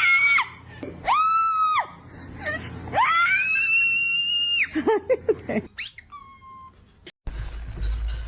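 Parrot screaming: three loud screeches, the last held for about a second and a half, then a few short notes and a quick rising squeak. Near the end the calls give way to a low rumbling noise.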